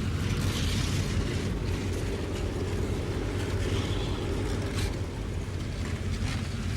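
Diesel freight train running with EMD F7 locomotives: a steady low engine drone under a continuous rumble of wheels on rail, with a few faint clicks.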